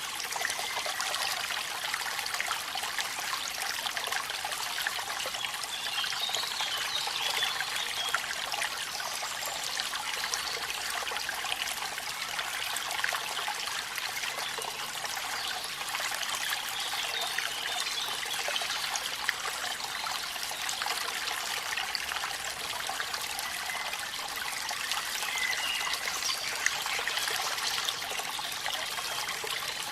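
Waterfall rushing steadily in the rain, an even hiss of water with many fine drip and splash ticks.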